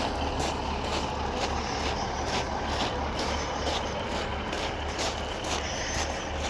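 Diesel multiple unit train standing at the platform with its engines idling: a steady low rumble.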